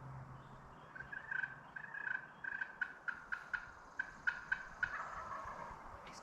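Turkey calls: a series of short repeated notes, evenly spaced through the middle, ending with a falling note about five seconds in.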